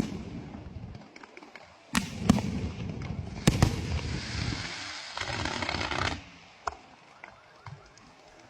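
Aerial fireworks going off: several sharp bangs, then about four seconds in a dense crackling shower lasting about two seconds, followed by scattered fainter pops.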